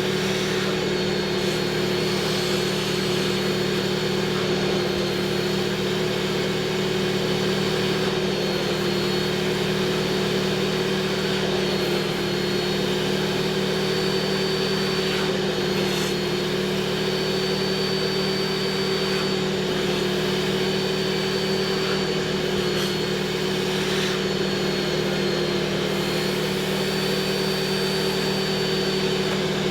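Vacuum motor, as in a carpet extractor or shop vac, running steadily with an even hum and a thin high whine over a rushing air sound.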